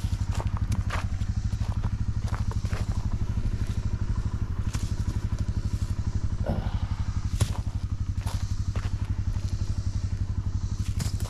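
Diesel tractor engine running at a steady, even speed, with scattered clicks and a sharp knock about seven seconds in.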